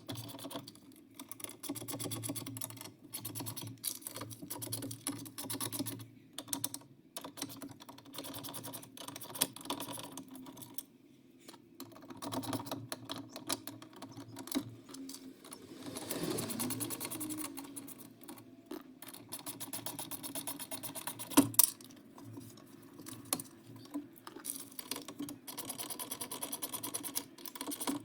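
Tools working on the window regulator bolts inside a car door: rapid clicking and rattling with a low hum under it, and one sharp, loud metallic click about two-thirds of the way through.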